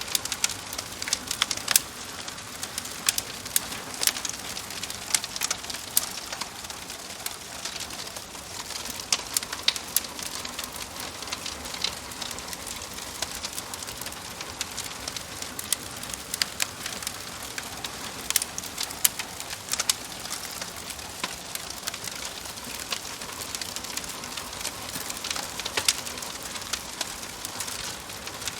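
Wood fire crackling steadily, with frequent irregular sharp pops and snaps over a soft hiss.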